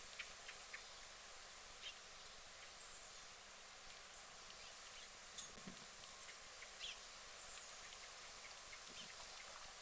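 Faint pond-side ambience with a few soft, short duck sounds scattered through it.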